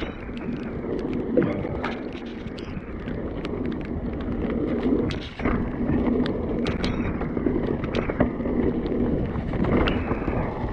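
Mountain bike ridden over a rough, wet trail: steady tyre noise with frequent sharp knocks and rattles from the bike, and wind buffeting the microphone.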